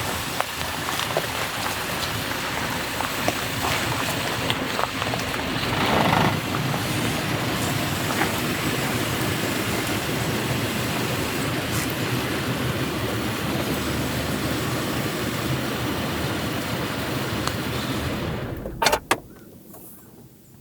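Steady rain falling, a dense hiss with scattered drip taps and a brief swell about six seconds in. Near the end come two sharp knocks, after which the rain noise falls away to a much quieter hiss.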